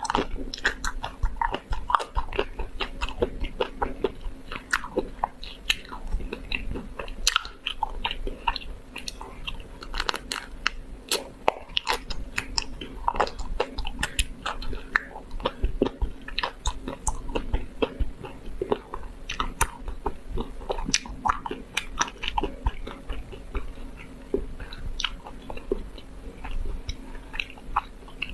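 Close-miked eating of a chocolate-coated ice cream bar: the hard chocolate shell cracks under bites, with chewing and many small irregular crisp crackles. A faint steady hum runs underneath.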